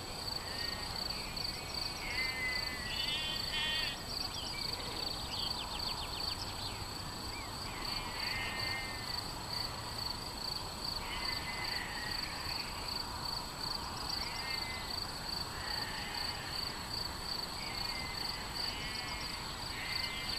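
Songbirds singing short trilled phrases every couple of seconds over a steady, high chirring of insects such as crickets, with a low hiss of open-air background noise.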